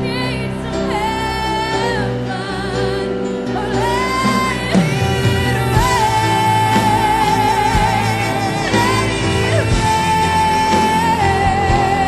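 Live gospel worship music: a solo singer holds long, wavering notes over sustained accompaniment, and the full band with drums comes in about five seconds in.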